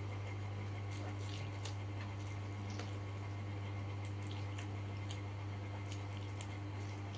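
Close-miked wet chewing and lip-smacking of a person eating fried chicken and rice by hand, irregular small clicks and squelches. A steady low electrical hum runs underneath.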